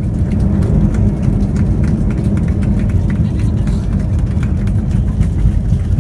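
Low, steady rumble of a landing Airbus A320's jet engines, mixed with crackling wind buffeting on the microphone.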